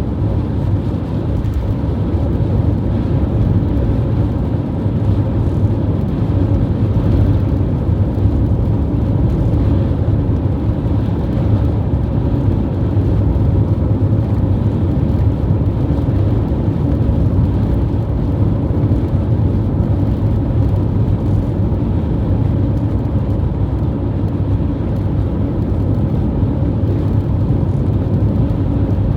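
Strong wind blowing against the microphone: a loud, steady low noise with no let-up.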